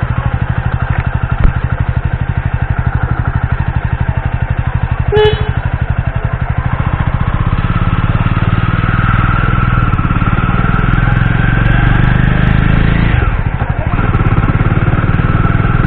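Motorcycle engine running steadily as the bike sets off, with a short beep about five seconds in. The engine note drops briefly about thirteen seconds in, then picks up again.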